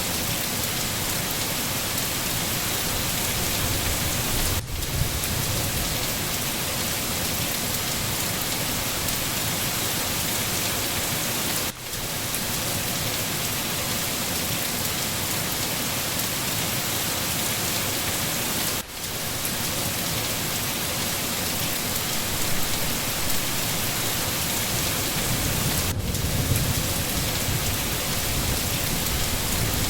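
Steady heavy rain falling on leaves and ground, with low rumbles of distant thunder about four seconds in and again near the end. The rain drops out briefly about every seven seconds.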